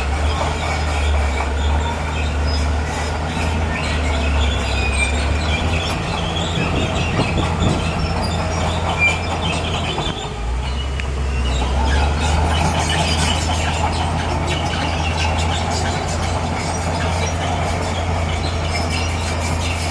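Bulldozer diesel engine running under load, with the steel crawler tracks squealing and clanking as it moves. The engine drone dips briefly about halfway through, then picks up again.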